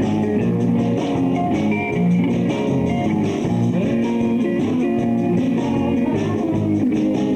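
Live rock band playing an instrumental passage: guitar over bass and drums, with no singing.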